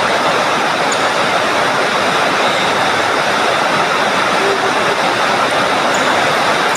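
Heavy rain, a loud steady hiss of downpour that masks the smash hits.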